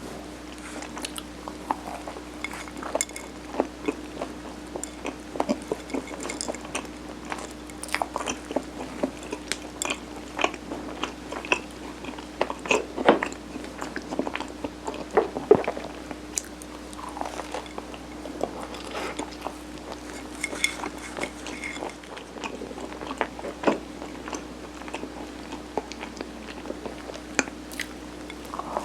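Close-miked chewing and biting of soft steamed rice cake with a mung bean coating (sirutteok): irregular sticky mouth clicks and soft crunches throughout. A faint steady hum runs underneath.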